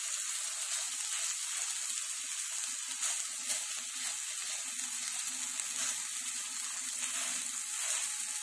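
Ground-beef burger patty frying in oil in a nonstick grill pan, a steady sizzle.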